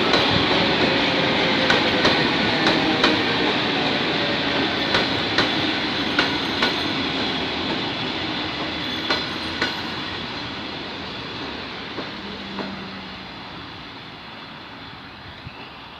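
Electric commuter train (elektrichka) running past and moving away, its steady rumble fading. Its wheels click over the rail joints in pairs, the clicks growing fainter and further apart.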